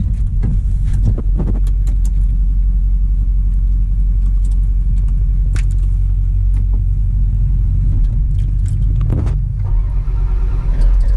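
Heavy-equipment diesel engine running steadily with a low, even rumble, with scattered short knocks and clicks.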